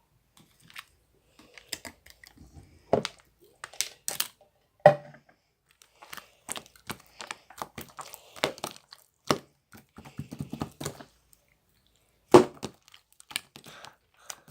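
Slime being pressed and stretched by hand: irregular sticky crackling and popping, with a few louder snaps.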